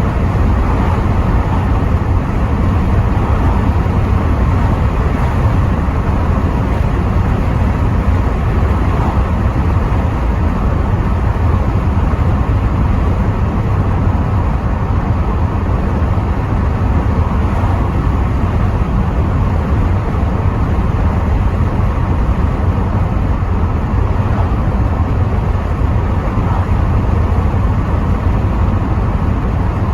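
Rover 75 V6 estate driving at a steady pace, heard from inside the cabin: a constant low rumble of engine and road noise, with wind noise through the partly open windows.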